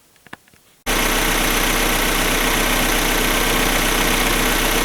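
Freshly rebuilt Opel Omega B X20XEV 2.0 sixteen-valve four-cylinder engine idling steadily, cutting in suddenly about a second in. The mechanic notes the exhaust pipe is blowing.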